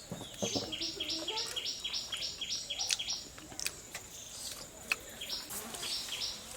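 A bird calling: a rapid series of short high notes, about four a second, for a few seconds, and again briefly near the end. A few sharp clicks come in between.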